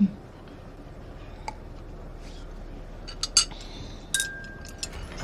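Scattered light clinks of small metal or glass objects, then a sharper clink about four seconds in that rings on as a single steady tone for about a second, like a small chime.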